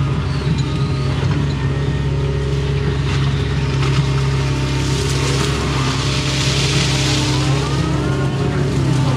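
Excavator's diesel engine running steadily under load while digging. A hiss swells about halfway through, and a rising whine comes in near the end.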